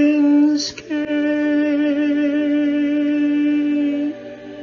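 A sung closing note held long with a slight vibrato, broken by a quick breath just under a second in, then held again until the voice stops about four seconds in, leaving quieter accompaniment.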